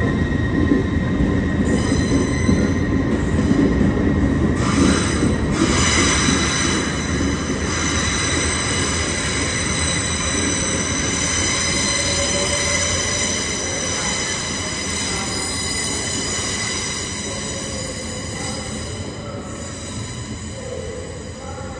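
LNER Azuma (Hitachi Class 800-series) train running out over the curved station tracks, its wheels squealing in several steady high tones over a low rumble. The rumble and squeal fade gradually as the train draws away, with a brief louder clatter about five seconds in.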